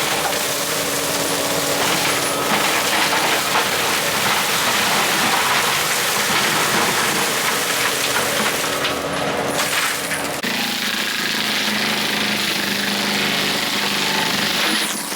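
Tracked skid steer's diesel engine running hard, with metallic clinks and rattles over it. The engine note changes abruptly to a lower pitch about ten seconds in.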